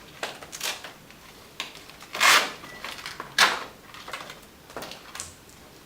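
Several short, irregular rustling and scraping noises of people moving about and handling things, the loudest about two and three and a half seconds in.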